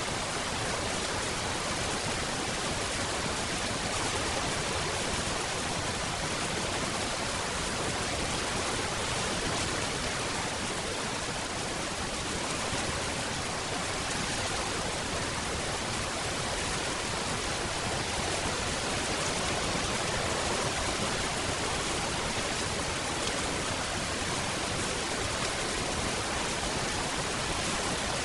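Steady rain falling, an even hiss that holds at one level without separate drops standing out.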